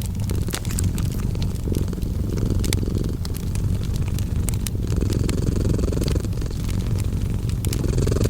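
Cat purring in a steady low rumble, mixed with the crackling of a wood fire: sharp pops and snaps scattered throughout.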